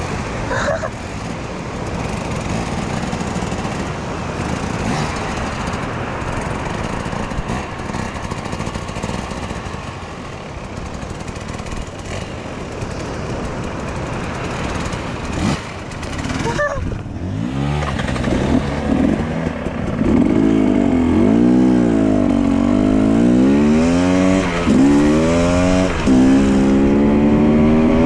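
Dirt bike engine riding over rough ground, with the throttle opened and closed so its pitch keeps rising and falling. For the first half it is mostly a steady rushing noise; a bit past halfway the engine note comes through clearly and louder.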